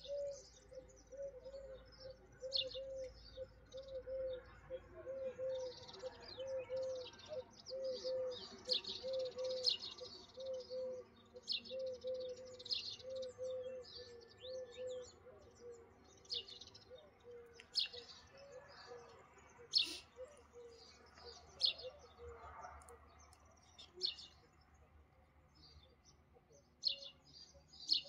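Small birds chirping, many short high chirps throughout, with a low note repeating about twice a second through the first half.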